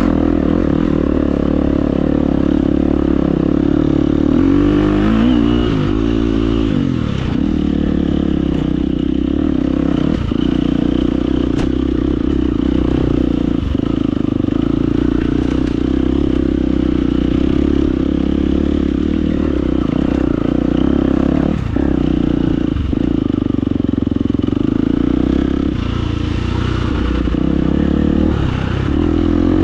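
Husqvarna FE250 four-stroke single-cylinder enduro engine running steadily under load, its revs rising and falling a few times, with scattered knocks and clatter from the bike over rocks.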